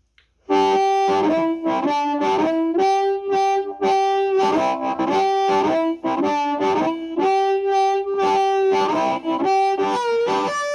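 Amplified harmonica, cupped around a Hohner HarpBlaster microphone and played through a small Fender Squier SP-10 guitar amp. A run of held chords and changing notes begins about half a second in and continues throughout.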